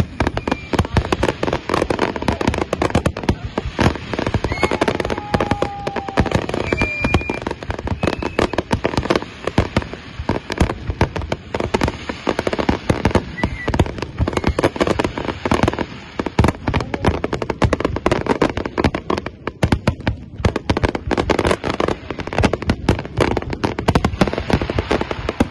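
Fireworks display: a dense, continuous barrage of aerial shell bangs and crackling, with a brief lull about twenty seconds in.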